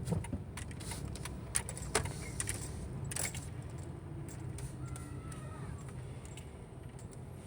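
Steady low rumble of traffic with scattered sharp clicks, densest in the first three seconds, and a faint brief whistle-like call about five seconds in.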